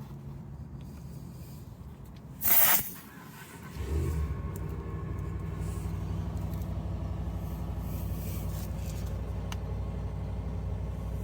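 Air compressor built into a VTOMAN X1 jump starter starting about four seconds in and running steadily with a fine rapid pulse, pumping a car tyre toward a preset 30 psi. About two and a half seconds in there is a brief, loud rush of noise.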